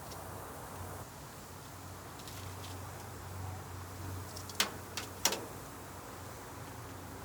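Cooking utensils clicking three times, quickly, a little past the middle, over a steady low hum.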